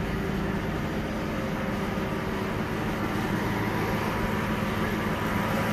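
Lexus LS400's 4.0-litre V8 idling steadily while it burns off a Seafoam intake treatment, the cleaner loosening carbon from the engine.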